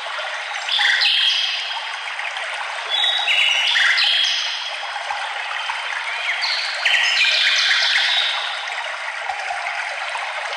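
Songbirds singing three phrases of clear stepped notes over a steady hiss of running water, like a stream.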